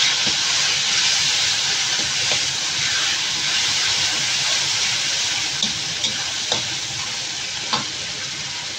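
Ground spice paste of shallots, garlic, candlenut and red chilli sizzling steadily in hot oil in a stainless steel wok, easing a little toward the end. A metal spatula stirring it clinks and scrapes against the pan a few times in the second half.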